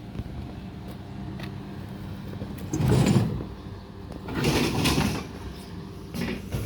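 Steady electrical hum of an ET2 electric multiple unit standing at a station platform. Two louder noisy swells come about three seconds in and again around five seconds.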